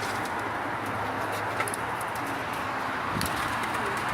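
Domestic pigeons cooing low and intermittently over a steady background hiss, with a few faint clicks.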